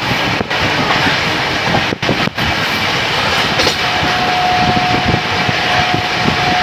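Train running on the rails: a loud, steady rumble and rattle of the carriages, with a steady high tone coming in about four seconds in.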